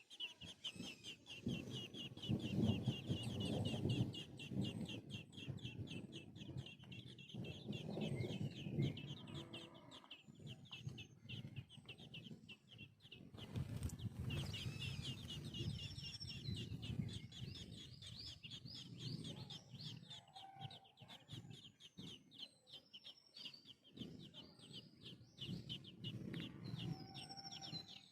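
Baby birds begging to be fed: a fast, continuous run of high chirps, many per second. Lower, rougher sounds swell and fade several times underneath.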